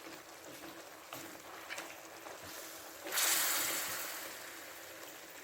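Chicken frying in a pan with a faint steady sizzle and a few light clicks; about three seconds in the sizzling surges suddenly to a loud hiss and then slowly dies down.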